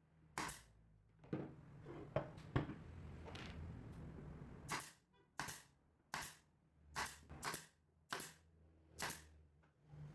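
Hand work on a workpiece: a few knocks and clicks, the loudest about two and a half seconds in, then a run of short rasping strokes about every two-thirds of a second, over a low steady hum.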